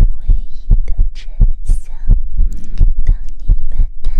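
Soft, muffled low thumps in a steady rhythm, roughly in pairs about one and a half times a second, like a heartbeat or gentle patting, over a constant low hum, with light taps and rustling close to the microphone.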